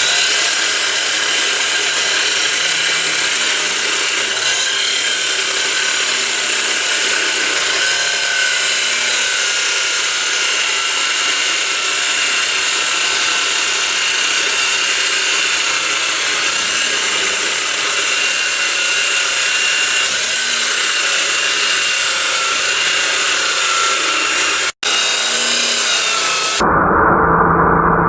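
A power tool running steadily on steel, with a few faint whining tones over a dense hiss. It drops out for a moment near the end, and a duller, muffled sound follows.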